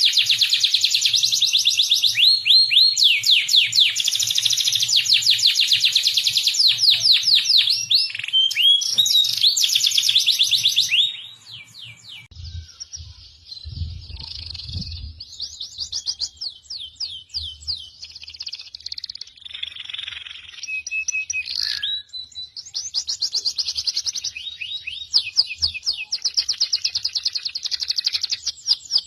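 Songbird singing a masteran (bird-training tutor song): long runs of fast, repeated high notes that sweep downward, loud for the first eleven seconds. After that the song is softer, with varied trills and chirps.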